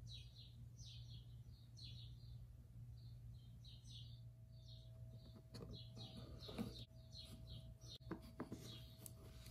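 Small birds chirping faintly and repeatedly in short high calls, over a steady low hum. A few light knocks come about six seconds in and again around eight seconds.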